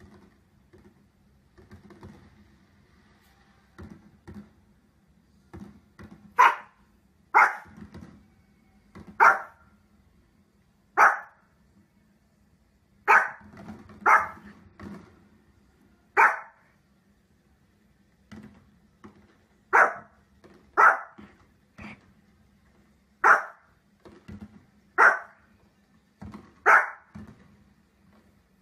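A dog barking in single short, sharp barks, one every second or two, starting about six seconds in.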